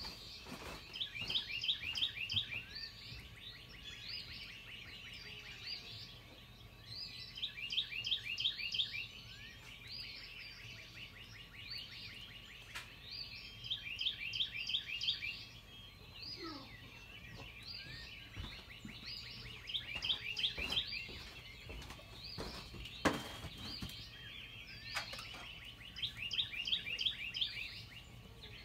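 A songbird singing the same short phrase over and over, a quick run of about half a dozen high notes repeated roughly every six seconds. There is one sharp knock about three quarters of the way through.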